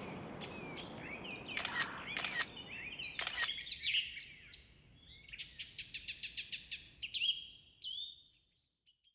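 Small birds chirping and twittering with short, high, down-slurred calls, a few sharp clicks in the first few seconds, and a quick trill of about ten evenly spaced notes a second near the middle, fading out near the end.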